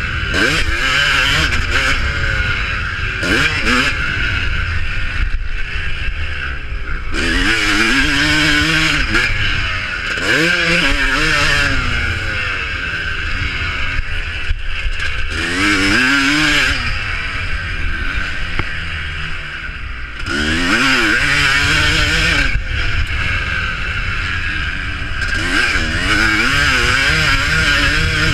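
Motocross motorcycles racing, their engines revving up and falling away again and again as they pass, over a constant drone of other bikes on the track.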